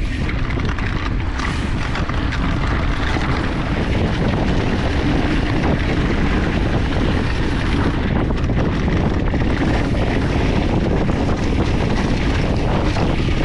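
Wind rushing over the bike-mounted or helmet camera's microphone and mountain bike tyres rolling over a rough dirt trail at speed, with the bike rattling; a steady, loud noise.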